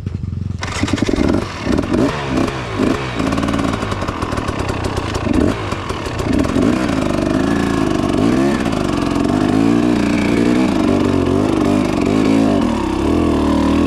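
Motorcycle engine running while riding, its pitch rising and falling again and again as the throttle opens and eases off, over a steady rushing noise.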